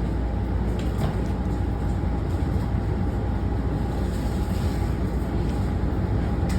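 Steady low rumble inside a Washington Metro railcar, with a faint steady tone above it.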